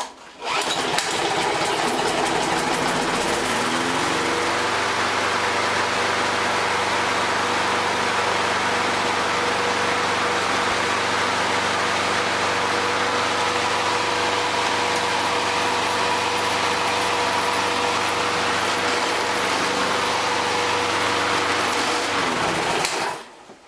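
Craftsman 5 hp walk-behind lawn mower engine, pull-started, firing right up and speeding up to a steady run over the first few seconds. Near the end it is shut off and winds down to a stop.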